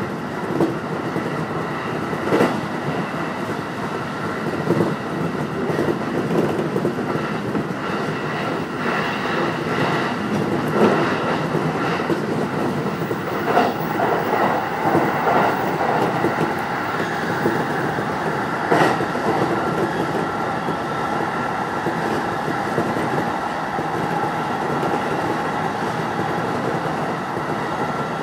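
Keiyō Line electric rapid train running at speed, heard from inside the front car: a steady rumble of wheels on rail with a faint steady whine, and a few sharp clacks from the track.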